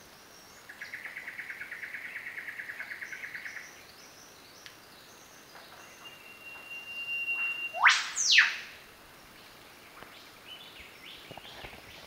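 Rainforest birds calling. A fast rattling trill of about ten notes a second runs for about three seconds. Later a long thin whistle leads into a loud whip-crack note sweeping sharply upward, answered at once by a note sweeping down; this is the loudest sound, about eight seconds in. Faint short chirps from other birds sound throughout.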